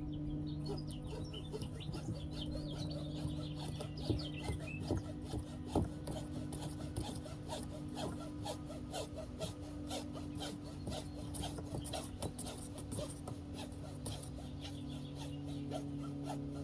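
Alkathene (polyethylene) pipe being sawn through by hand: a long run of quick back-and-forth rasping strokes, several a second.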